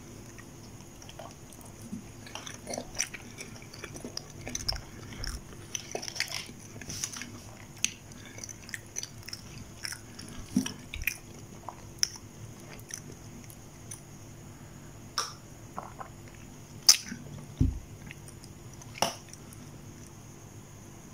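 A person chewing a soft dumpling close to the microphone: irregular mouth clicks and smacks, with one sharper click a few seconds before the end, over a steady background hum.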